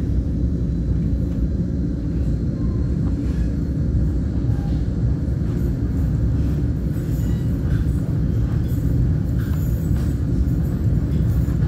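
Passenger train in motion, heard from inside the car: a steady low rumble of the wheels and running gear on the rails.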